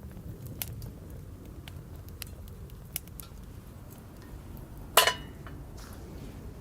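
Wood fire crackling with scattered sharp pops, and one loud metallic clink with a short ring about five seconds in.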